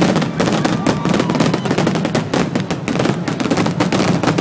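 Fireworks going off in rapid succession: a dense, unbroken string of bangs and crackles overlapping one another.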